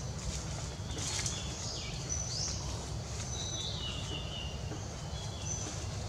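Forest birds calling: several short high whistles, including a quick rising whistle about two seconds in and a run of falling notes near the middle, over a steady low rumble.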